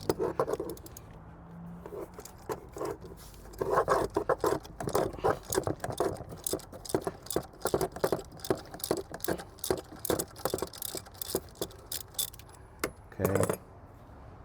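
A half-inch ratchet with a 1-inch socket clicking in quick runs as the oil filter housing cap is turned loose, with a louder knock near the end.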